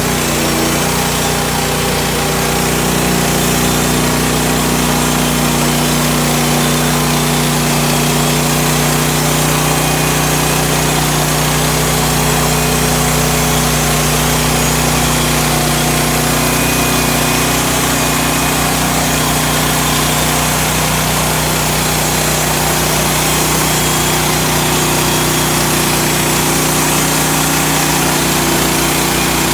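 Woodland Mills HM130 band sawmill's engine running steadily at high speed, the band blade sawing through a spruce log.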